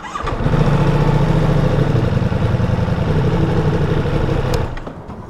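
Ducati Multistrada V4 S's 1158cc V4 engine running at low, steady revs in first gear as the motorcycle rolls off slowly. It comes in sharply about a quarter second in and drops away near the end.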